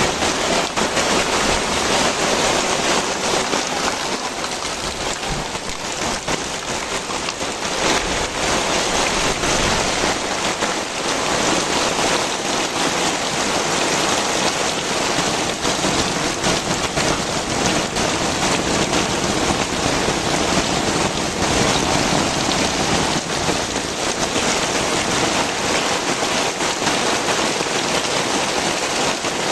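Heavy rain falling steadily and loudly, a dense patter of drops hitting the ground and nearby surfaces.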